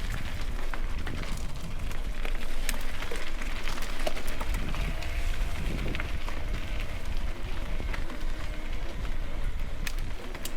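Mountain bike riding over a wet trail: steady tyre and wind noise on the microphone with a low rumble, and scattered sharp clicks and rattles from the bike.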